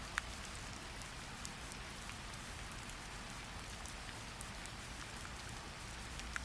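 Steady rain falling, an even hiss over a low rumble, with scattered sharper ticks of single drops, the loudest about a quarter-second in and another near the end.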